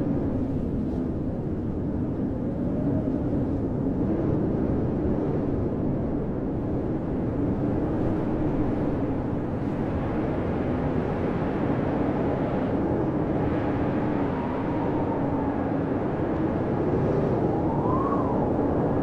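Blizzard wind howling steadily: a dense low roar with whistling tones that waver up and down in pitch, one swelling and falling near the end.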